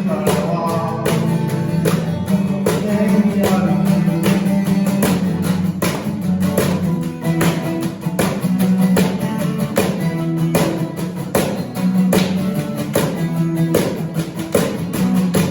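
Live band music with strummed acoustic guitar and sustained low bass notes keeping a steady, even strumming rhythm.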